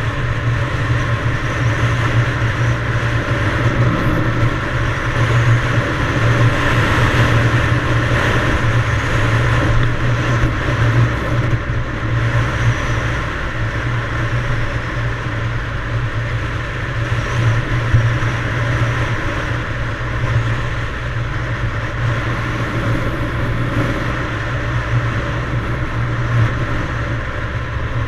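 Yamaha DT175 dual-sport motorcycle's two-stroke single-cylinder engine running steadily while riding.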